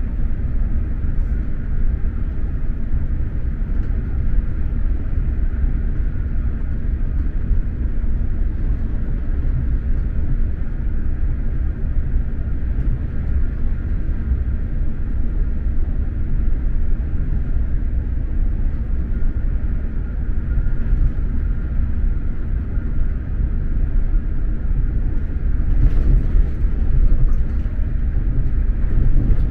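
SJ X2000 high-speed train running along the line, heard from inside the passenger carriage: a steady low rumble, growing slightly louder in the last few seconds.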